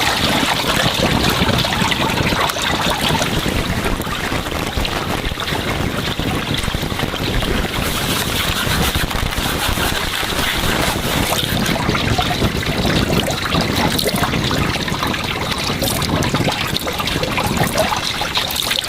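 Water running steadily, like a trickle or small stream.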